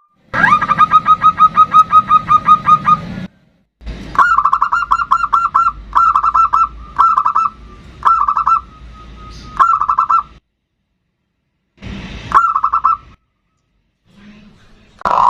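Zebra dove (perkutut) song: rapid runs of short staccato coos at one steady pitch, about four notes a second. The song comes in several bursts that start and stop abruptly, with brief silent gaps between them.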